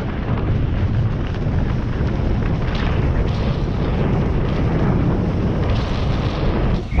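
Wind buffeting the microphone while snowboarding downhill, a loud, steady low rumble with the hiss of the ride over it.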